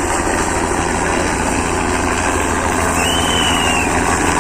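Helicopter running, a loud steady rumble of engine and rotor. A short, high, thin tone sounds about three seconds in.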